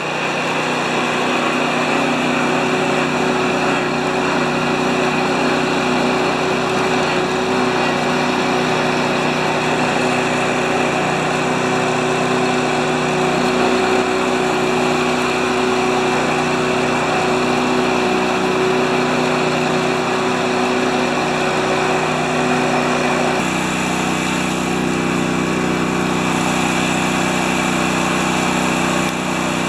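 Snowblower's small gasoline engine running steadily after being started and warmed up. Its note shifts abruptly near the end.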